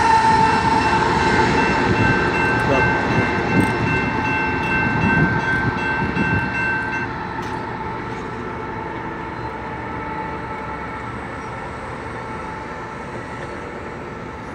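A BNSF coal train's diesel locomotives and cars rolling past and fading away, the rumble dying down steadily. Steady high tones ring over it and stop about seven seconds in.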